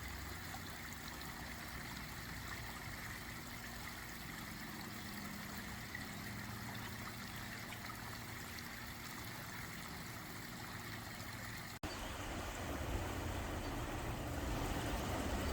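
Backyard pond waterfall trickling and splashing steadily. About twelve seconds in the sound cuts to a louder, fuller rushing noise.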